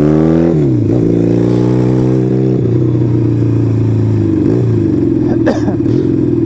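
Motorcycle engine running on the road, its revs climbing and then dropping sharply about half a second in and again around two and a half seconds, with a further dip later. A few brief sharp knocks come near the end.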